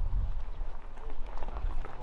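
Footsteps while walking with the camera, over an uneven low rumble of wind or handling noise on the microphone, with faint voices in the distance.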